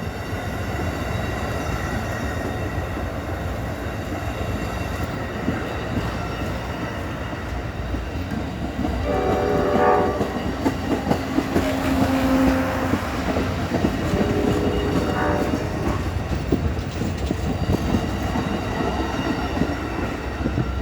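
Amtrak passenger train rolling across a small railway bridge, with steady wheel and rail noise. Its horn sounds twice, about nine seconds in and again about fourteen seconds in.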